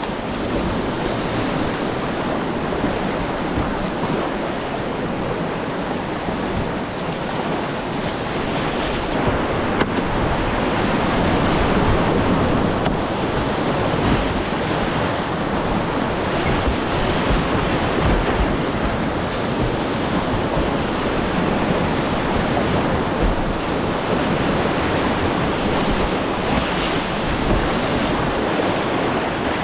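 Whitewater of a mountain river rushing steadily, with wind buffeting the microphone.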